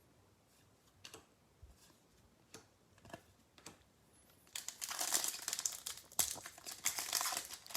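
A few light clicks of trading cards being handled, then from about four and a half seconds in a steady crinkling as a foil trading-card pack wrapper is torn open.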